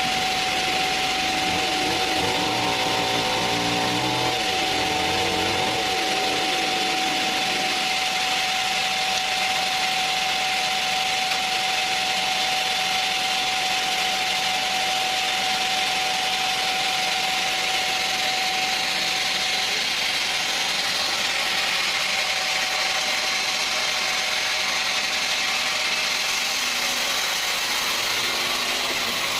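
Sawmill machinery running steadily: a continuous mechanical noise with a steady whining tone that stops about two-thirds of the way in.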